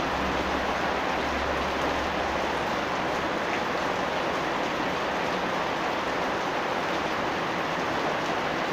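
Rain falling steadily, a dense even hiss. A low rumble underneath stops about two and a half seconds in.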